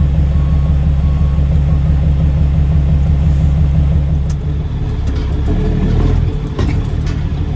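Caterpillar C13 diesel of a straight-piped Kenworth W900B dump truck running with a heavy low rumble. It eases off about four seconds in, then the revs climb and drop suddenly a little after six seconds before it pulls on.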